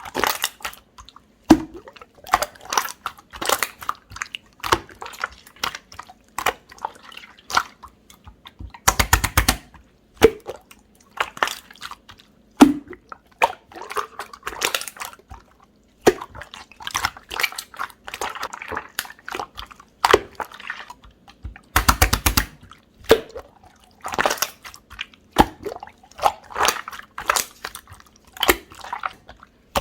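Jelly-textured slime squished and pressed by hand, giving wet clicks, pops and crackles in quick, irregular clusters.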